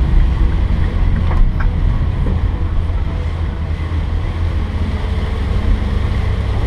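Steady low rumble and hiss inside a moving car driving on a rain-soaked road, wet tyres and rain on the car body, with the rain easing off.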